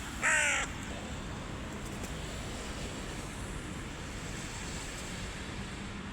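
A hooded crow gives one harsh caw, about half a second long, just after the start. A steady background hiss follows.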